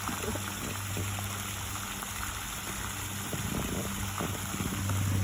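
Water splashing and trickling close by, with small scattered ticks, over a steady low hum.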